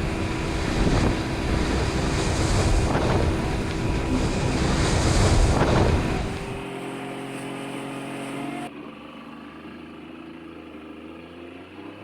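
Speedboat running fast with wind buffeting the microphone and water rushing, surging every second or two. About six seconds in it cuts off abruptly to a much quieter steady hum, which steps down again near nine seconds.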